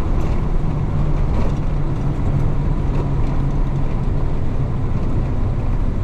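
Diesel engine of a 1966 Isuzu BXD30 bonnet bus (DA640) pulling the bus along, a steady low drone mixed with road noise.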